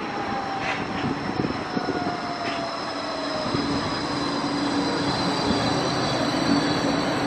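Light-rail tram pulling into the stop, its electric drive whining in a tone that falls slowly in pitch as it slows, with steady higher whines above it. Heavy wind noise on the microphone runs underneath.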